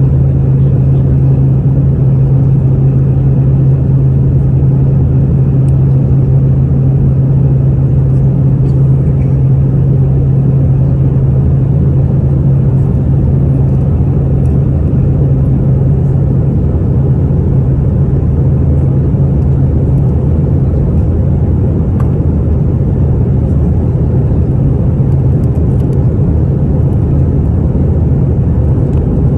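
An airliner's engines heard from inside the passenger cabin: a loud, steady rumble with a low hum running through it. The hum weakens a little past the middle.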